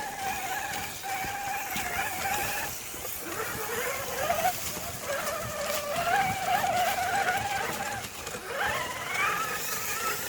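Radio-controlled rock crawler's electric motor and gear drive whining as it crawls, the pitch climbing when the throttle is opened a few seconds in and again near the end, with faint clicks from the tyres on rock and dirt.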